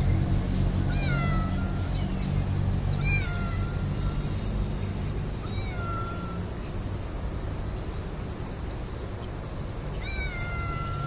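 A cat meowing four times, each meow about a second long, falling in pitch and then held, over a steady low rumble.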